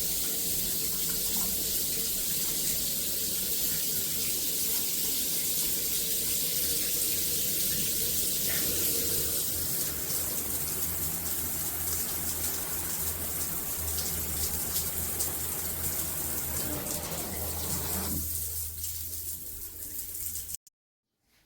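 Water spraying steadily from a gotonovo rainfall shower system, a loud even hiss. It thins out near the end and then cuts off suddenly.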